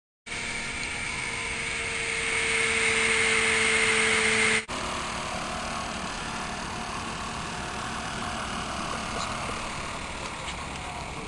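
Small electric motor spinning a propeller, a steady whirring whine over air rush, getting louder until it cuts off abruptly about four and a half seconds in, then steady whirring again.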